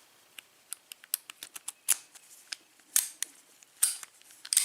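Abus 8345 padlock being worked by hand with its key: a run of sharp, irregular metal clicks and snaps as the key turns and is drawn in the cylinder and the shackle is handled, the loudest snaps in the second half.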